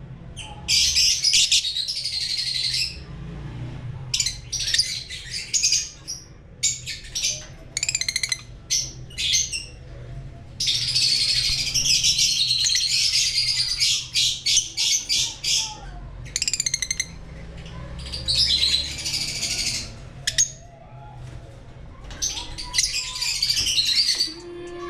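Lovebirds chattering in shrill bursts of rapid chirps and squawks, each burst lasting from a moment to several seconds with short pauses between them; the longest run comes a little before the middle.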